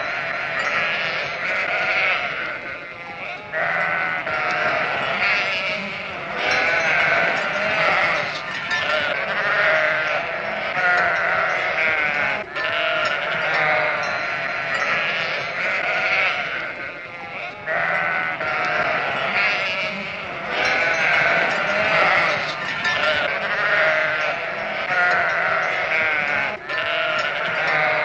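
A flock of sheep bleating, with many overlapping calls that keep on without a break.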